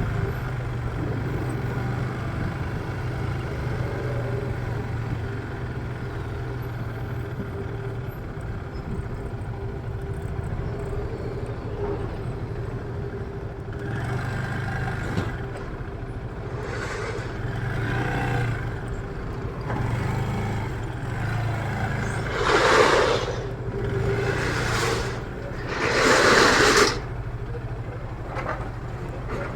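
Motor traffic with a steady low engine hum. In the second half come several short rushing bursts, the two loudest near the end.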